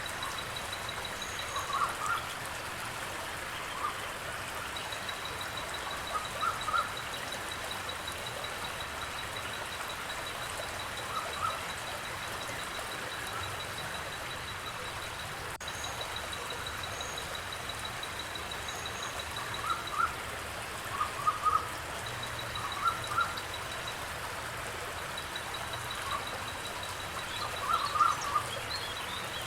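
Birds giving short calls every few seconds, often two or three in quick succession, over a thin, steady, high pulsing trill that breaks off and resumes, and a soft background hiss.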